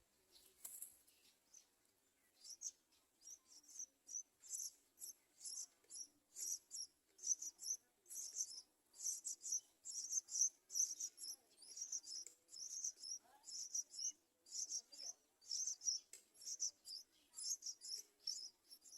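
Yellow-vented bulbul nestlings begging with short, high-pitched chirps, repeated quickly at about two or three a second, starting a couple of seconds in.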